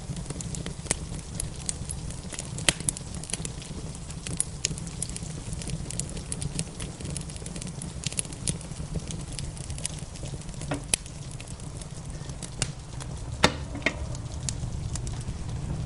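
Wood fire crackling, with frequent small pops and a couple of louder snaps, about three seconds in and again near the end, over a steady low rumble.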